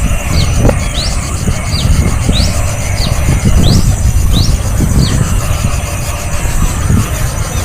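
A small bird giving short, high chirps, one about every two-thirds of a second, stopping about five seconds in. A steady low rumble runs underneath.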